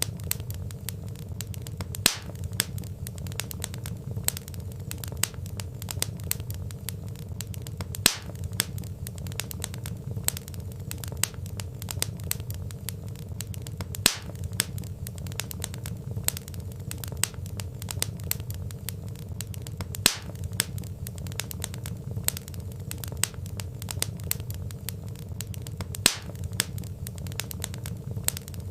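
Wood fire crackling with many small sharp pops over a steady low rumble, a louder pop standing out about every six seconds.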